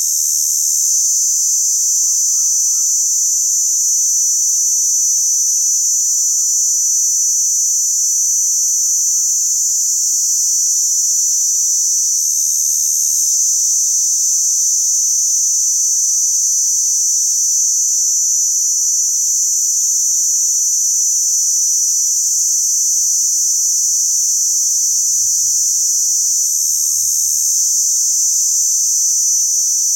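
Crickets chirping in a steady, continuous high-pitched trill that doesn't let up.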